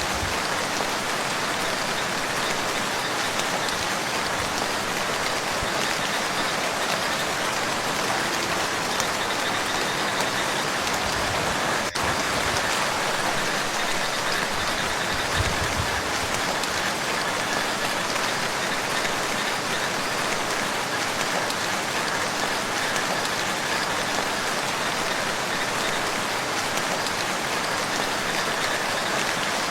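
Steady rain falling on lake water, an even, continuous patter.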